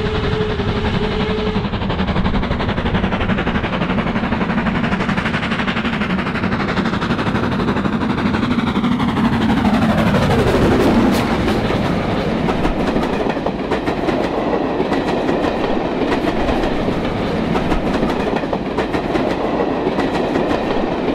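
A train running past, with a steady rumble and a clickety-clack of wheels over rail joints. A brief steady tone sounds at the start, and the sound of the train sweeps down in pitch as it passes about ten seconds in.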